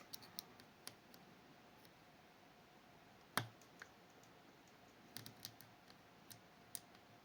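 Faint, scattered clicks of a lock pick probing the levers of a Fichet 484 lever sidebar lock while checking whether each lever is set. There is one sharper click about three and a half seconds in and a small cluster of clicks about five seconds in.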